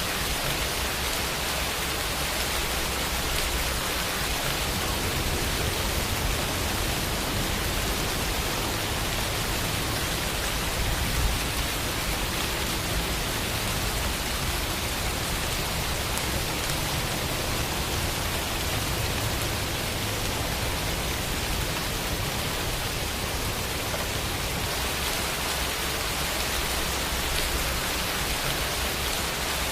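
Steady rainfall, an even hiss of drops with a soft low rumble underneath.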